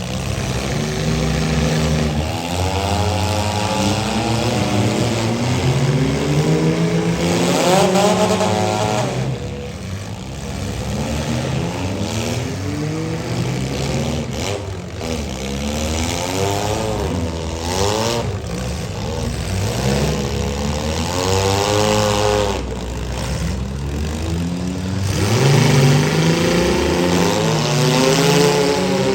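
Engines of several compact and midsize demolition derby cars revving up and down over one another as the cars maneuver, with a few sharp knocks of impact in between.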